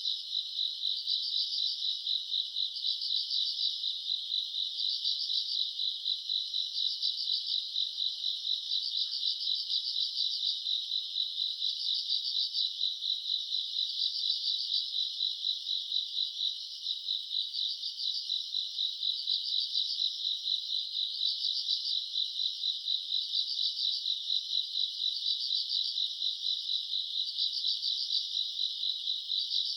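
Night chorus of grass insects: a dense, steady high trill with a louder chirp repeating about every two seconds.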